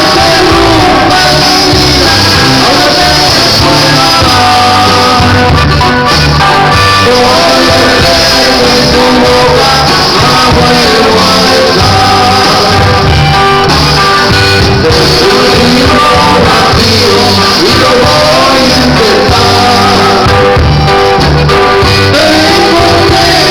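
Norteña band music playing loud and steady, with singing over a repeating bass line.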